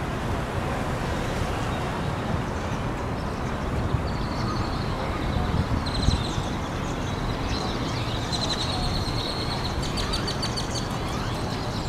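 A large flock of blackbirds calling, rapid high chirps and clicks that come in from about four seconds in, over a steady low rumble.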